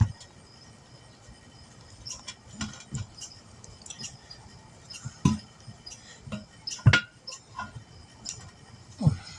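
Irregular metallic clinks and knocks from tools and metal parts being handled during tire work, with sharper knocks at the start and about five, seven and nine seconds in.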